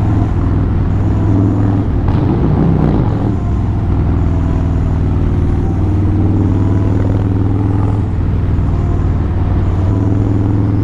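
Motorcycle engine running steadily at freeway cruising speed, with a constant low drone under heavy wind rush.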